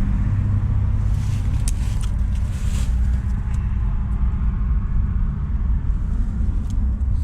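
Steady low rumble of nearby road traffic, with a few brief rustles and clicks one to three seconds in.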